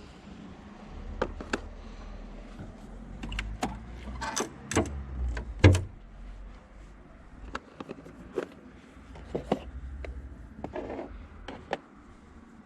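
Irregular clicks, taps and knocks of hands working parts while fitting LED headlight bulbs into a car. The loudest is a sharp knock nearly six seconds in.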